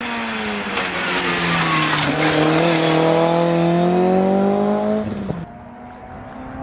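Rally car engine running hard as the car passes close: the engine note dips, then climbs steadily as it accelerates, loud, and drops away sharply about five seconds in.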